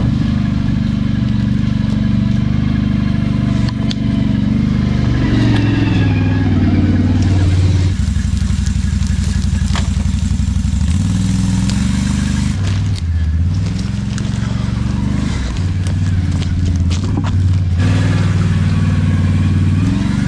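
ATV engine running, its pitch rising and falling as it is throttled up and down.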